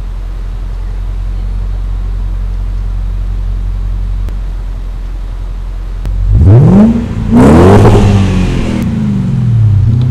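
BMW 535i (E39) V8 through a Magnaflow aftermarket exhaust, idling with a low, steady note. It is then revved twice, at about six and seven and a half seconds, the second rev climbing higher, and drops back toward idle with one smaller blip near the end.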